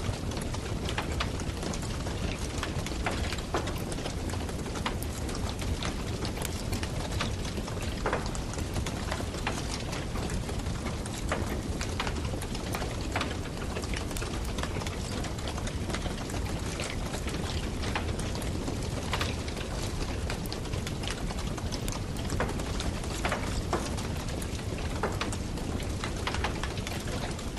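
Campfire burning: irregular sharp crackles and pops of burning wood over a steady low rush.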